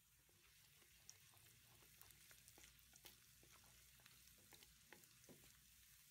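Chopped aromatics frying faintly in oil in a steel wok, a soft steady sizzle dotted with small pops and ticks, as a wooden spatula stirs them.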